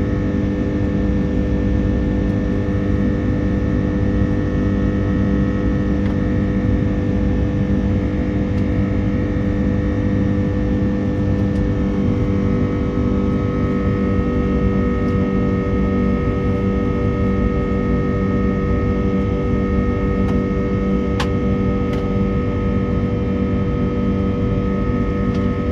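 Airbus A330-300 cabin noise from its Rolls-Royce Trent 700 engines during the climb after takeoff: a steady drone with several held tones. A higher tone joins about halfway through, and there is a faint tick near the end.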